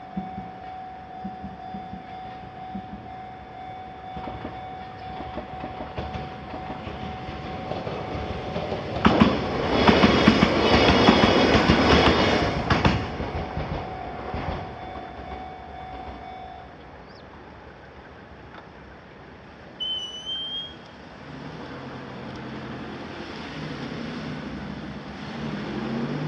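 Level-crossing warning bell ringing steadily while a Fujikyu electric train passes over the crossing, loudest about ten to thirteen seconds in with wheel clicks over the rail joints. The bell stops a few seconds after the train has gone, and near the end a car engine revs as road traffic moves off.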